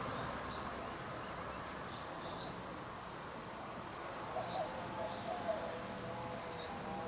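Outdoor yard ambience with small birds chirping, short high chirps repeating every second or so, and a brief low warbling call about four to five seconds in.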